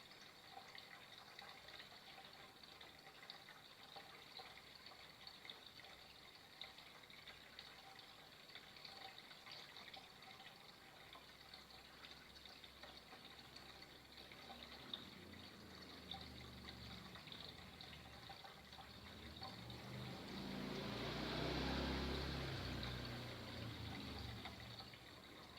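Flowing water, a steady faint rush. About twenty seconds in it swells louder with a low rumble, peaks a couple of seconds later and fades again.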